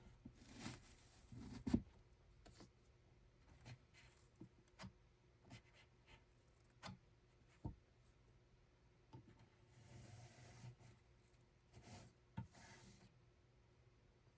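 Quiet handling sounds: scattered light clicks and taps with short rustles, and one sharper knock a little under two seconds in.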